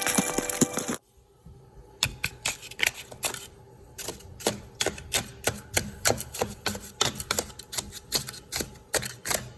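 A rapid, uneven series of sharp clicks and knocks, about three to four a second. It starts about two seconds in, after music cuts off about a second in.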